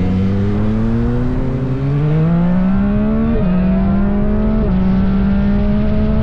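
Sport motorcycle engine accelerating under load. Its pitch climbs steadily and drops sharply at two upshifts, about halfway through and again a second or so later.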